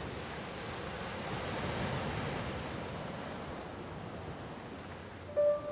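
Surf washing steadily onto a sandy beach. Near the end a sustained musical tone comes in, like a singing bowl.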